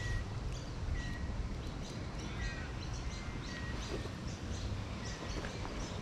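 Birds calling: short, repeated chirps and brief whistled notes, over a steady low background noise.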